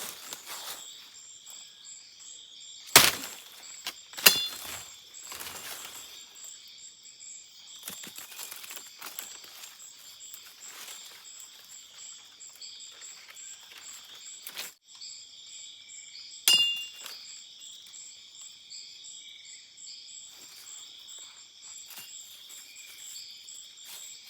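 Machete strikes on wood or vine: three sharp whacks, two about a second apart near the start and one more about two-thirds of the way through, the later ones with a brief metallic ring. Dry leaves crackle between the strikes, over a steady high buzzing chorus of forest insects.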